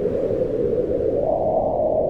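Howling wind: a steady moaning rush whose pitch rises a little about a second in, then eases back down.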